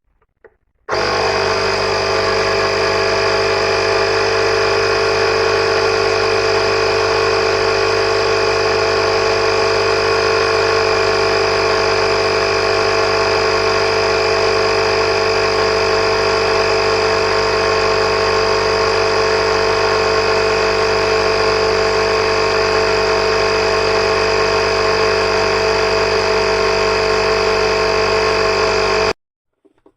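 Oasser portable 12V/240V air compressor running with a loud, steady buzzing hum, switched on about a second in and cut off abruptly near the end.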